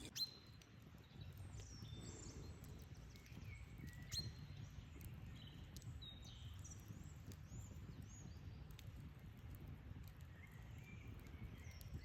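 Wild birds chirping, many short calls one after another, over a steady low rumble. Two sharp clicks stand out, one just after the start and one about four seconds in.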